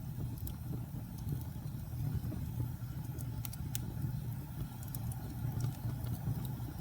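Wood fire burning with a steady low rumble and scattered faint crackles and pops.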